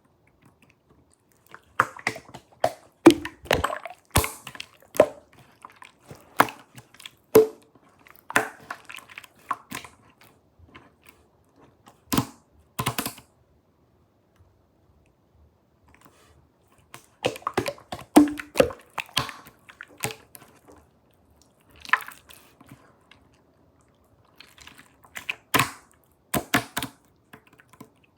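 Slime being squeezed and worked by hand, giving clusters of sharp clicking, crackling pops separated by short pauses.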